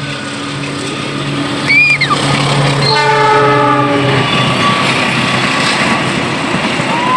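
A long train of many carriages passes close by, getting louder as it comes. Its locomotive horn sounds one chord-like blast of about a second and a half, roughly three seconds in. After the blast, the wagons rumble and clatter past. A brief shrill squeal is heard about two seconds in.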